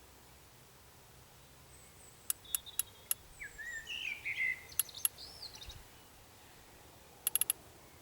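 A songbird singing a short phrase of twisting whistled notes, with sharp ticks before and after it and a quick run of ticks near the end.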